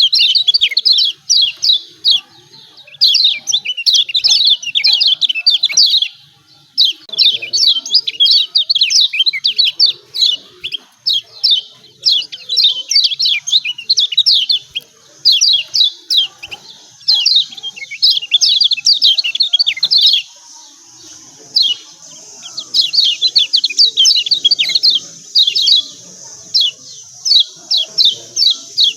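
Kecial kuning (the Lombok yellow white-eye, pleci) giving its excited 'ciak ciak' call: rapid runs of sharp, downward-sweeping chirps in bursts of a few seconds, broken by short pauses.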